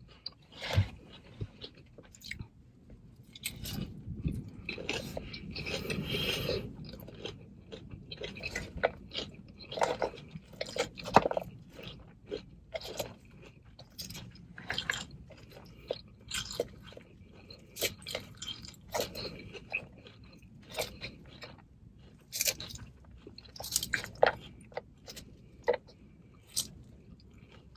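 Close-miked chewing of a salad: many short, irregular crunches and mouth clicks.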